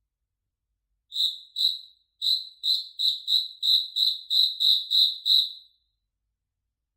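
A cricket chirping: about a dozen short, high, even-pitched chirps at roughly three a second. They start about a second in after dead silence and stop near the end.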